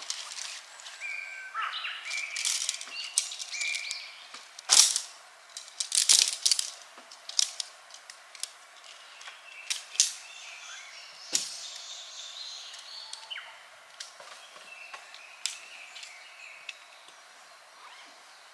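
Irregular sharp knocks and clicks, a handful of them louder than the rest, with a few short bird chirps in the first seconds.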